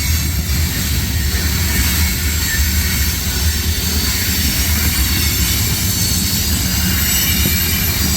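Freight cars of a long mixed freight train rolling past, a steady low rumble of wheels on rail.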